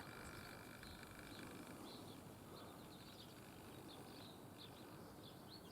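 Faint birdsong: small birds giving short, high chirps and twitters, repeated irregularly over a quiet outdoor background.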